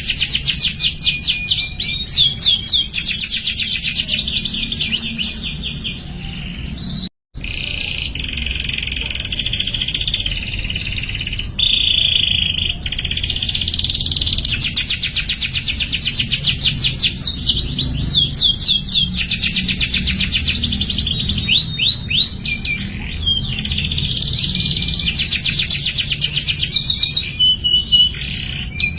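Domestic canary singing a long, loud song of rapid trills and rolling runs of repeated notes, with a brief cut-out about seven seconds in. A low background hum runs underneath.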